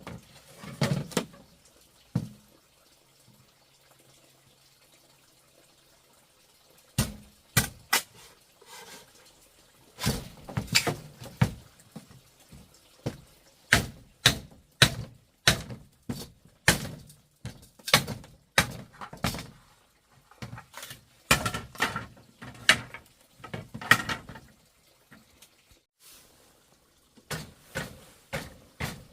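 Irregular knocks and thuds, often one or two a second, with a quiet stretch of a few seconds near the start.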